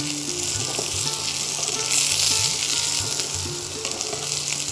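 Potato, pointed gourd and drumstick pieces frying in hot mustard oil in a pan, sizzling steadily while being stirred with a wooden spatula.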